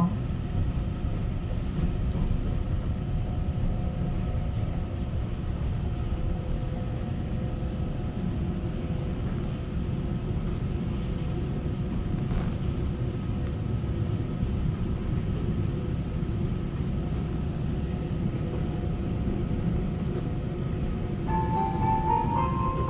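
Inside a Taiwan Railway EMU900 electric multiple unit in motion: a steady running rumble with a few faint steady hums. Near the end an electronic chime melody starts over the train's speakers.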